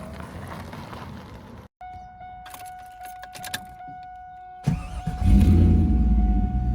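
2000 Pontiac Firebird Trans Am WS6's 5.7-litre LS1 V8 cranking and catching about two-thirds of the way in, then settling into a loud, deep idle. Before it there are a few clicks, and a steady high tone sounds throughout.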